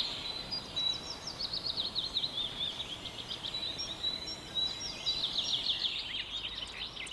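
Small songbirds singing: quick runs of short, high chirps and trills, with a thin, steady high note under them.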